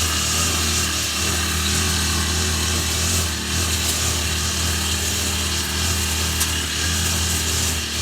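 Grass cutter (brush cutter) engine running steadily at high speed while clearing weeds.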